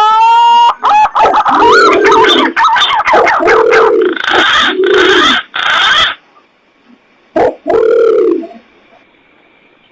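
Wild pigeon lure calls, as used to attract punai and pergam: whistled, rising calls and a run of short hooting coos with sharp clicks between them, then one last call about eight seconds in.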